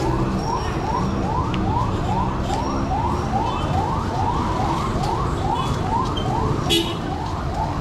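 Siren sounding in fast repeated rising sweeps, about three a second, over the low rumble of a vehicle engine.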